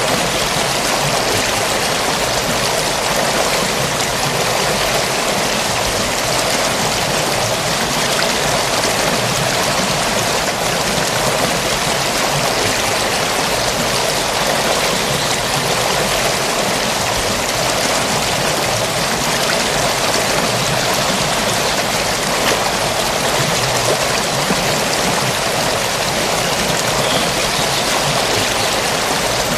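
Forest stream flowing steadily over rocks, a continuous rushing of water.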